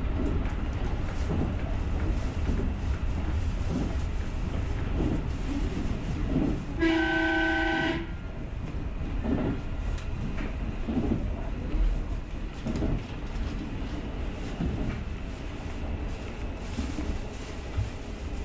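JR rapid electric train running along the track with a steady low rumble of wheels on rail. About seven seconds in, a train horn sounds once as a single steady chord lasting about a second.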